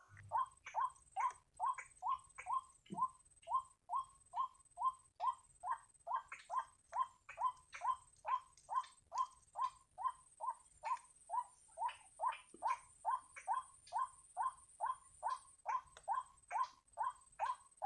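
White-breasted waterhen calling: a steady, unbroken series of short falling notes, about two and a half a second.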